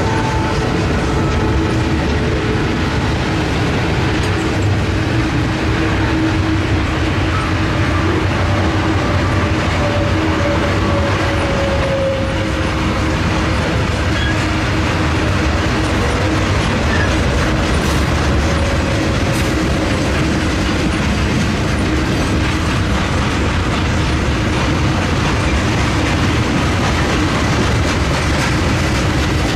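Freight train cars rolling steadily past, wheels clattering over the rail joints, with a faint squeal from the wheels.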